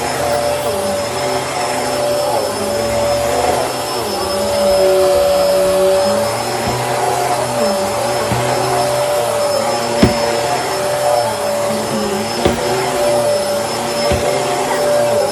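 Bissell Helix upright vacuum cleaner running steadily with a constant motor whine, its tone shifting slightly with the load as it is worked. A few sharp clicks come in the second half.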